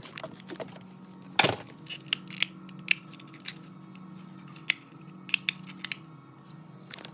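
Irregular sharp clicks and taps, the loudest about a second and a half in and several close together near the end, over a steady low hum.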